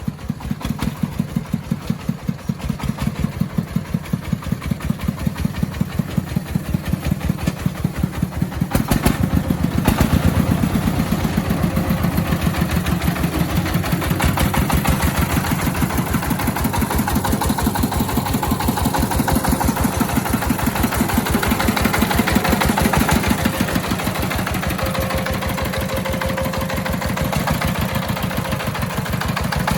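Engine of an agricultural timber-hauling vehicle running with an even beat of firing strokes, speeding up and getting louder about nine seconds in, then easing slightly near the end.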